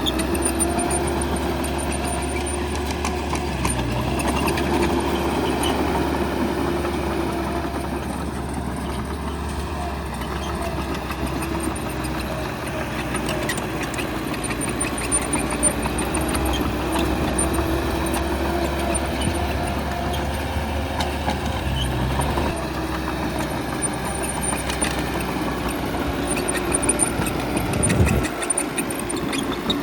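Bulldozer's heavy diesel engine running steadily while working, its pitch rising and falling a little with load, with a few sharp knocks and a brief change in engine note near the end.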